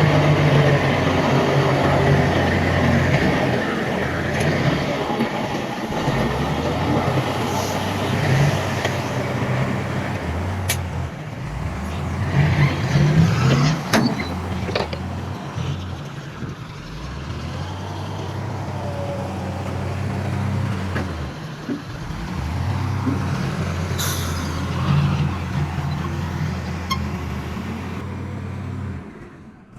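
Heavy diesel engines of earthmoving machinery running steadily, with a few sharp metallic clanks; the sound drops out briefly near the end.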